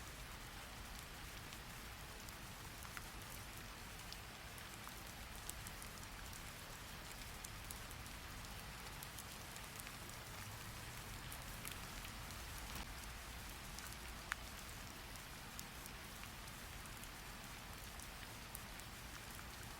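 Steady rain falling: an even hiss with a few scattered sharp ticks, one standing out about fourteen seconds in.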